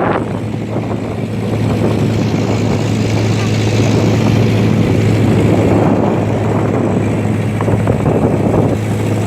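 Boat engine running steadily, a low even drone that holds one pitch throughout.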